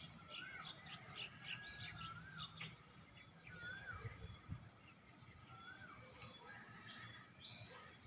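Birds calling: a short rising-and-falling whistle repeats about every second and a half, with scattered higher chirps between. Under them runs a steady high-pitched insect drone.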